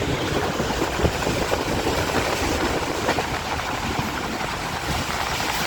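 Passenger train running at speed: a steady, loud rumble and rush of wheels on the track, with a few sharp knocks.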